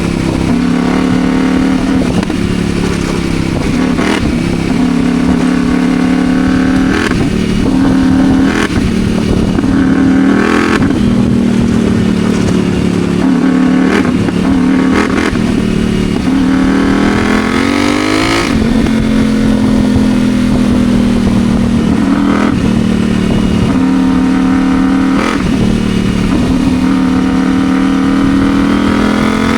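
CFMoto Ibex 800 T motorcycle engine running under way at steady road speed, its note dipping and recovering several times as the throttle is eased and reopened. About two-thirds of the way through it climbs in pitch, then drops back abruptly, as in a rev-up and shift.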